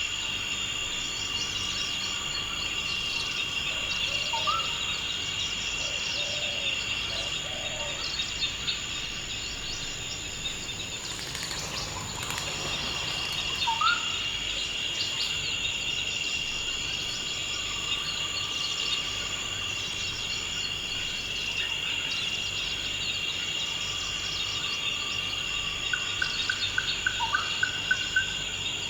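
Forest ambience: a steady high-pitched insect trill throughout, with a few short rising bird calls and, near the end, a quick run of repeated bird notes.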